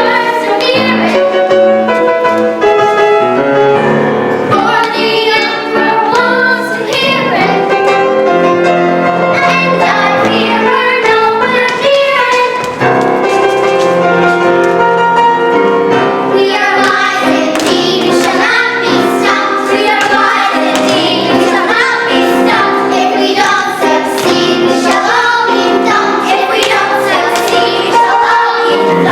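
Children's voices singing a show tune as a group with piano accompaniment.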